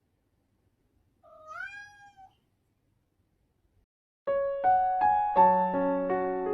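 A house cat gives a single meow, rising then held for about a second; then, about four seconds in, electric-piano music starts with a run of clear notes.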